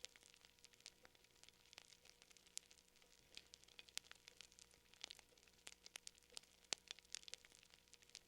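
Faint fire crackling: irregular sharp pops and snaps, several a second.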